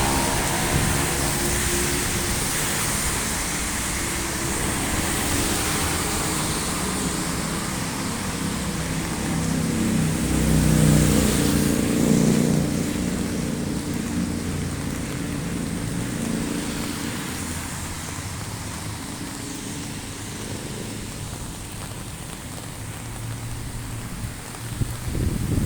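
Steady heavy rain hissing, with motor vehicles passing on a street. A pitched engine sound fades out in the first couple of seconds, and a low vehicle rumble swells and peaks about 10 to 12 seconds in.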